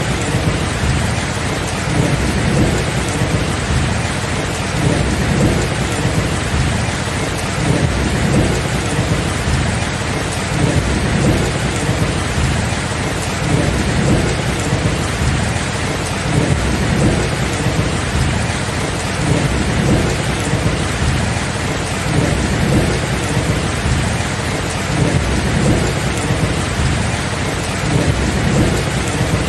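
Steady rain falling, with low thunder rumbling on and off beneath it throughout.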